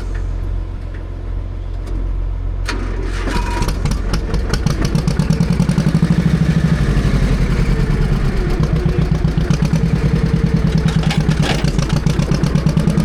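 Tractor engine running. About four seconds in it picks up and settles into a loud, even, pulsing beat.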